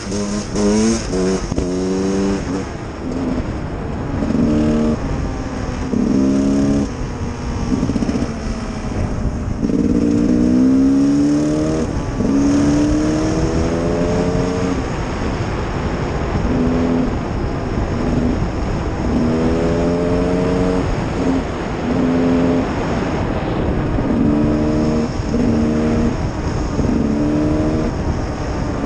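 Gas Gas EC 300R two-stroke single-cylinder enduro engine under way. The throttle is opened and closed again and again, so the engine note keeps climbing and dropping, with a few longer climbs. Under it runs a steady rush of wind.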